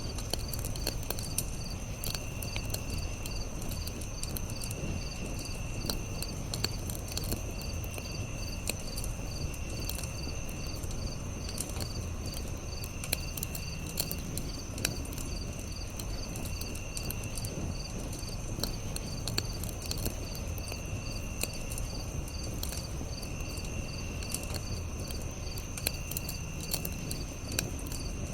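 Campfire crackling, with scattered sharp pops over a low rumble, while insects chirp steadily. One high chirp pulses rapidly, and a lower trill comes in bursts of about a second every two to three seconds.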